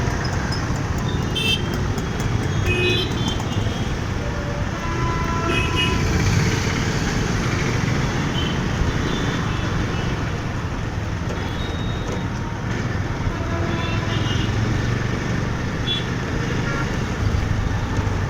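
Busy city road traffic heard from a moving motorcycle: a steady engine and road rumble, with several short horn toots from surrounding vehicles.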